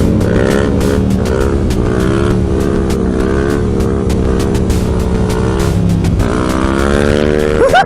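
Motorcycle engine running under way, its pitch rising and falling slightly, with wind buffeting the microphone. Near the end there is a short, loud burst of quick rising revs.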